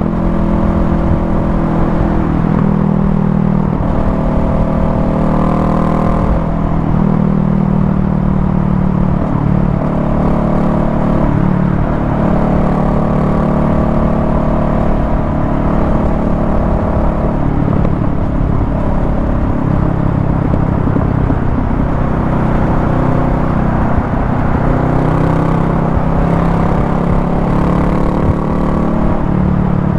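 Honda Rebel 500's parallel-twin engine running at highway speed. Its pitch rises and falls every few seconds with the throttle, over steady wind and road rumble.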